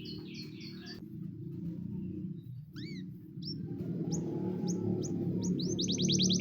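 Canary singing: a short run of quick high notes, a few separate swooping calls, then spaced upward-sweeping whistles that speed up near the end into a fast rolling trill. Low background music runs underneath.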